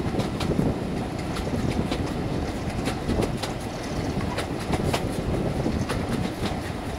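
Passenger coach running along the track: a steady rumble of wheels on rail, with many sharp clicks as the wheels pass over rail joints.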